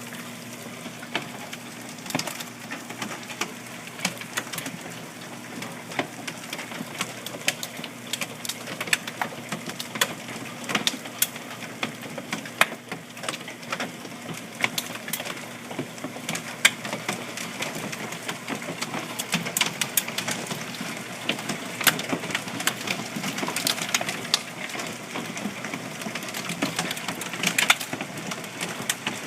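Hailstones striking hard surfaces during a hail storm: a steady hiss of falling rain and ice with many sharp, irregular clacks of individual stones, coming thicker in the second half.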